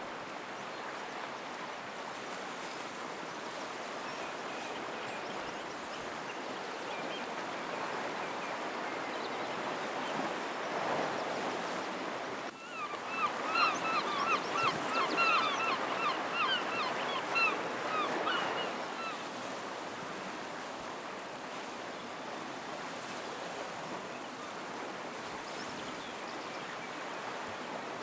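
Sea surf washing steadily against the shore. About halfway through, a bird gives a rapid run of repeated calls for about six seconds.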